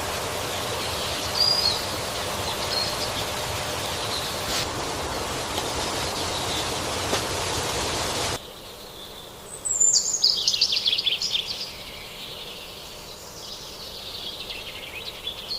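Forest ambience: a steady hiss of background noise with a couple of short bird chirps. About eight seconds in it cuts abruptly to a quieter bed, and a bird sings one loud, fast trill that falls steadily in pitch over about two seconds.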